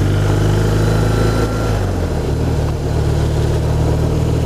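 BMW R1200RT boxer-twin engine running at a steady cruise, with its low tone shifting slightly about two seconds in. Wind buffets the helmet mic.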